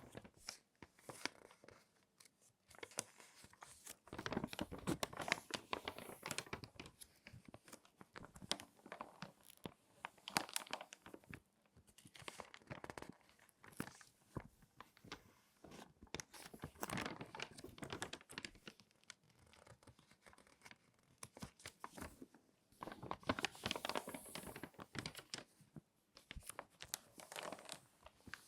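Crinkly glossy magazine pages being folded and creased by hand, close up. The paper crackles in bursts several seconds long, with short quieter pauses between them.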